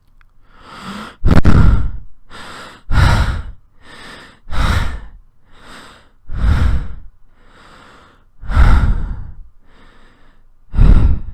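A man doing heavy breathing with his own voice: a steady cycle of loud, deep breaths, about six of them, each followed by a softer one.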